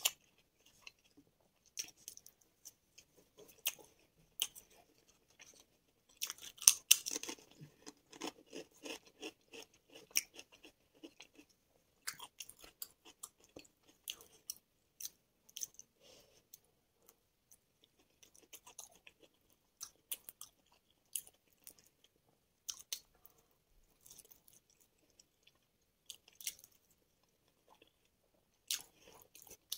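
Close-miked chewing of mushroom biryani and chilli Manchurian fries, with wet mouth sounds and crisp crunching, a dense run of crunches about seven seconds in being the loudest.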